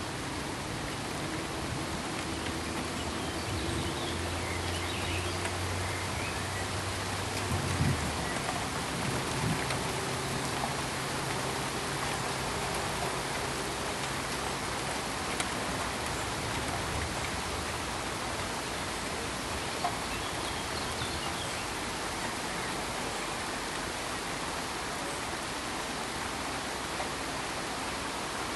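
Steady pink noise: an even, rain-like hiss. A faint low hum comes and goes in the first half, and there is a brief soft knock about eight seconds in.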